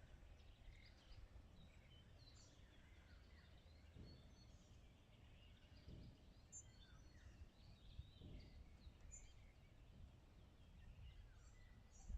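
Faint outdoor ambience: many small birds chirping and twittering over a low steady rumble.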